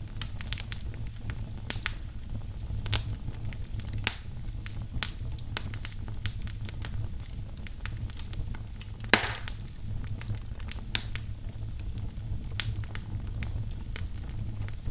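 Wood fire burning in a fireplace: a steady low rumble with irregular sharp crackles and one louder pop about nine seconds in.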